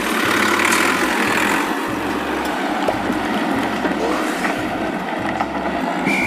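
Steady, loud mechanical running drone like an idling tractor engine, from remote-control toy tractors at work.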